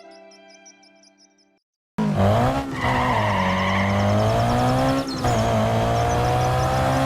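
Soft music fades out, and after a short silence a loud vehicle engine sound starts about two seconds in, running steadily with its pitch wavering and slowly rising.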